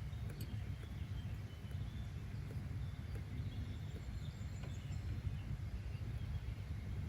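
Nature-sound ambience: a steady low rumble with faint, scattered bird chirps above it.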